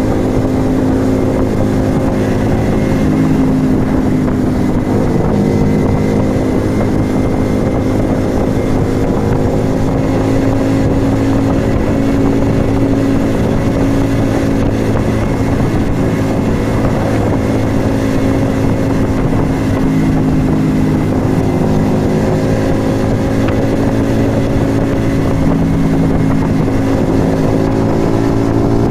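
Yamaha XV125 Virago's small air-cooled V-twin running through a Turbo Kit aftermarket exhaust while riding at a mostly steady speed. The engine pitch rises a little near the end as it picks up revs.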